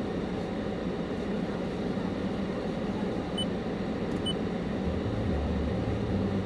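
Car cabin noise while driving, a steady hum of road and engine that deepens near the end. Three short high beeps sound partway through.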